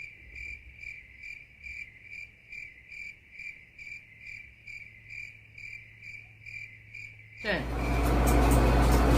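Cricket chirping steadily, short even chirps about two a second, cut in and out abruptly as an added sound track.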